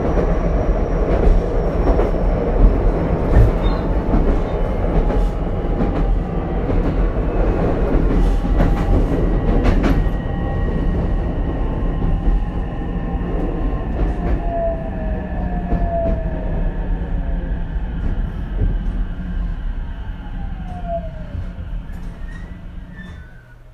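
Inside the Ichibata 7000-series railcar 7001 as it slows for a station: steady wheel-and-rail rumble with occasional clicks over rail joints. About two-thirds of the way through, whining tones glide down in pitch as it brakes. The running noise dies away near the end as the car comes to a stop.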